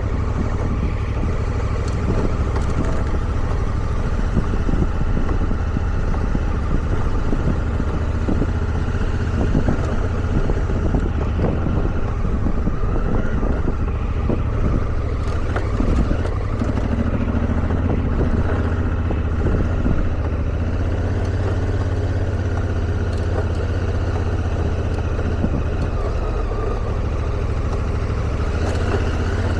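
Motorcycle engine running steadily at trail speed on a dirt jeep trail, a constant low drone with road noise. A few short knocks and clicks break in here and there.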